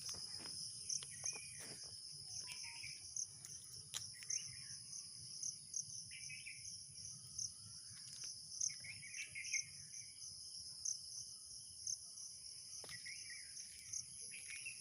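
Outdoor ambience: a steady high-pitched insect chorus, with birds chirping every second or two.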